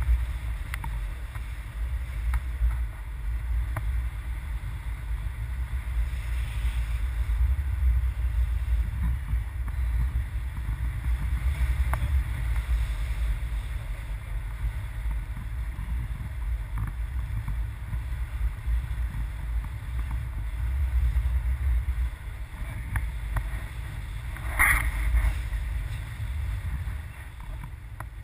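Wind buffeting the microphone as a steady low rumble, with a short knock near the end.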